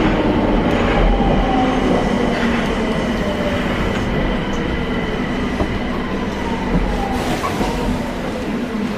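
Nagoya Municipal Subway 2000 series train heard from inside the car, running and slowing: steady wheel-and-rail rumble with the traction motor's whine gliding slowly downward as the train brakes into a station.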